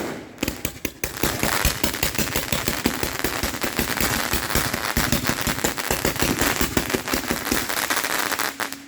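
Fireworks going off: a sharp bang at the start, then a long run of rapid crackling pops that stops near the end.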